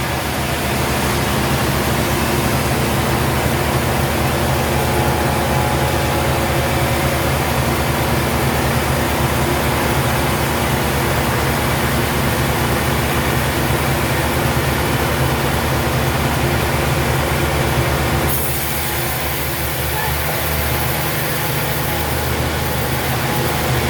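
Sawmill machinery running steadily, a loud motor with a hissing saw noise over it; about 18 seconds in, the hiss drops off and the sound eases slightly as it keeps running.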